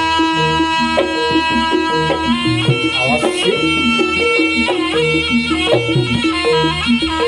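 Traditional Javanese folk ensemble playing for a horse dance: a nasal, held reed melody over a steady pattern of drums and short pitched percussion notes.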